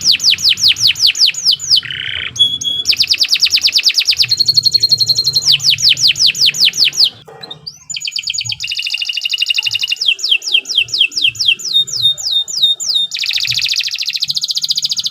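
Domestic canary singing a loud, continuous song of rapid trills, each phrase a fast run of repeated sweeping notes before switching to a new phrase type. The song breaks off briefly about seven seconds in, then resumes.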